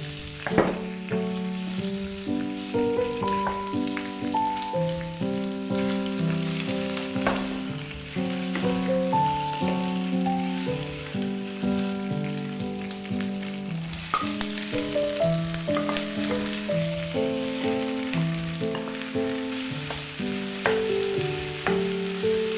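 Shrimp and snap peas sizzling in hot oil in a frying pan, with scattered clicks and scrapes of a wooden spatula stirring them. The sizzle grows louder partway through. An instrumental melody plays throughout.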